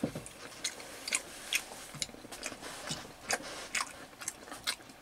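A person chewing soft, chewy stir-fried pork skin with the mouth close to the microphone: irregular smacking clicks, several a second.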